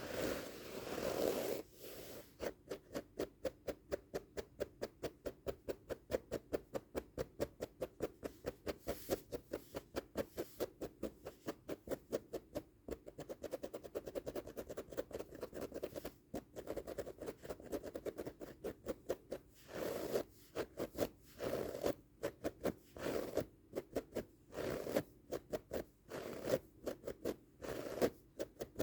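Scratching on a carpet rug, mostly fast and rhythmic at about four strokes a second. It opens with a moment of continuous rubbing, and in the second half the scratching comes in short spells with brief pauses.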